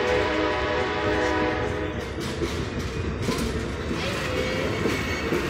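Passenger railcars rolling past close by: a steady rumble of wheels on rail with a couple of clacks over rail joints, and a ringing tone that fades out within the first second and a half.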